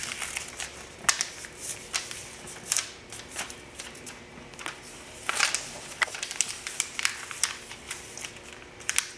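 A sheet of paper being handled and folded into a paper airplane: irregular crinkles, rustles and sharp creasing sounds.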